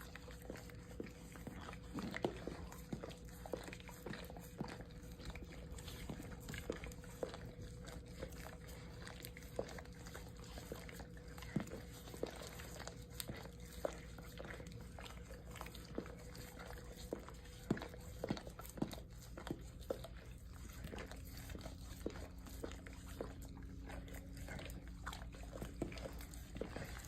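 Two dogs, one a beagle, licking each other: irregular wet smacking and lapping clicks, a few louder than the rest, over a faint steady hum.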